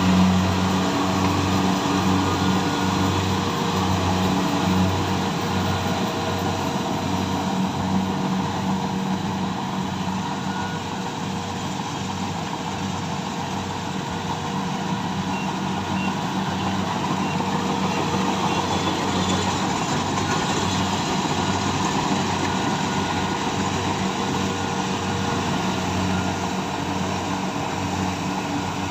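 Kubota combine harvester's diesel engine and threshing machinery running steadily under harvesting load, with a steady hum and a regular low pulsing throughout.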